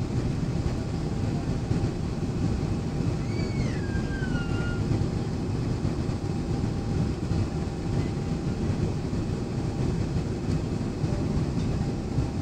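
Steady low rumble of jet airliner cabin noise, engines and airflow, with a faint steady hum. A short high squeal that falls in pitch sounds about three seconds in.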